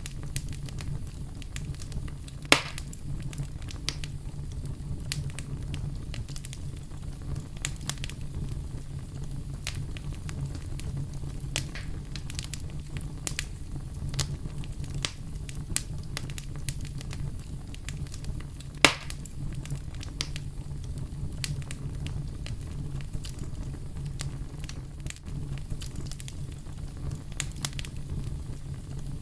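Wood fire burning with a steady low rumble and scattered crackles, and two louder pops, one a few seconds in and one a little past the middle.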